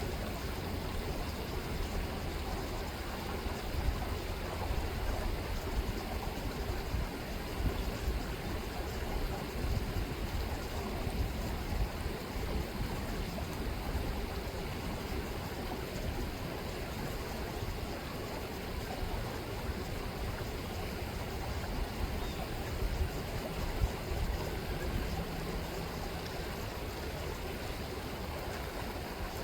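Chilliwack River rippling and rushing, a steady even wash of water. A low rumble sits under it, stronger in the first half.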